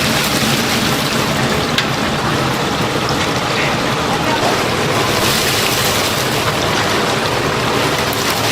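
Chicken pieces deep-frying in hot oil: a steady, loud sizzling hiss with a few faint crackles.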